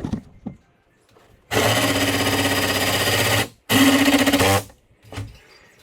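An electric power tool running in two bursts, about two seconds and then about one second with a short pause between, as a hood-pin hole is cut into a carbon fiber hood. A knock at the very start.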